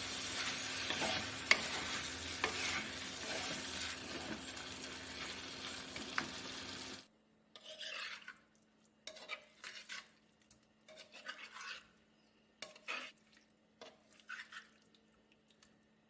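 Chicken frying in a pan with a steady sizzle, and clicks of a spatula stirring it. The sizzle cuts off suddenly about seven seconds in, and short, quieter scrapes of a utensil on a pan or dish follow.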